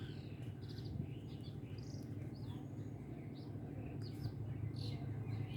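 Faint bird chirps, short calls scattered every second or so, over a steady low hum.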